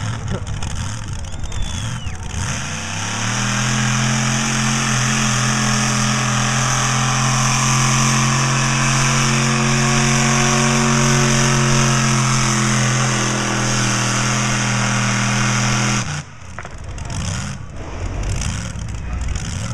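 Diesel pickup truck engine at a truck pull: it revs up about two seconds in and holds a loud, steady high-rpm note through the pull, then cuts off suddenly near sixteen seconds as the driver lets off.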